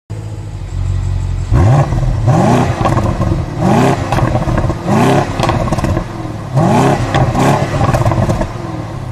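BMW E9 coupé's straight-six engine idling and being blipped by the throttle, revving up and dropping back about six times.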